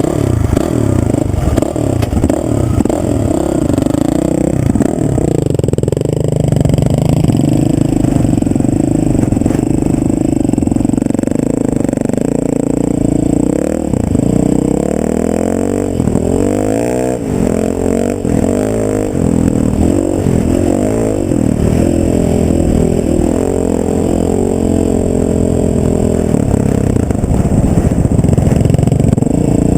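Vehicle engine running under way, loud and continuous, its pitch rising and falling again and again through the middle of the stretch.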